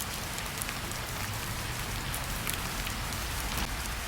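Steady rain falling, with scattered sharper ticks of single drops striking a surface.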